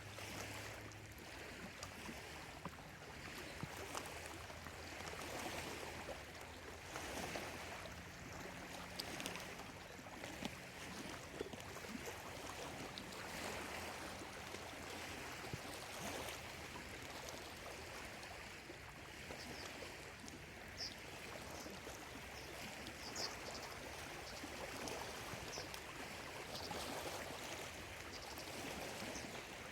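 Small lake waves lapping on the shore, a steady wash that swells and eases every few seconds. Short high bird chirps come in during the second half.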